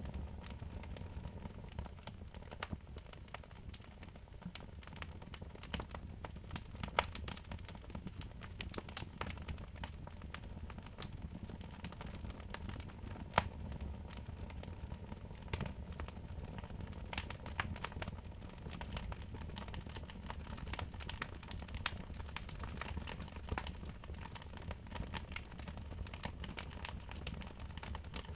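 Wood fire in a fireplace crackling, with irregular sharp pops, a few louder ones, over a steady low rumble.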